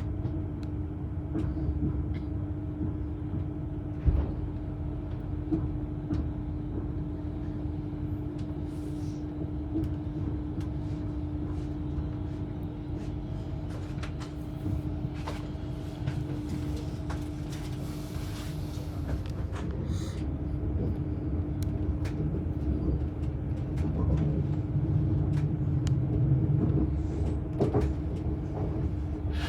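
Passenger train heard from inside the carriage: a steady hum over a low rumble, with occasional short knocks and clunks. The rumble grows louder in the last third.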